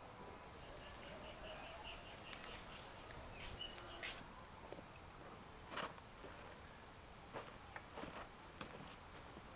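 A steady insect chorus of crickets or cicadas, with a run of short bird chirps about two to three seconds in, and a handful of sharp knocks scattered through the second half.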